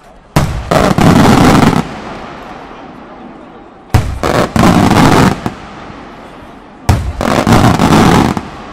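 Three aerial firework shells bursting a few seconds apart, each a sharp bang followed by about a second of rapid, dense reports, then echo rolling away between bursts.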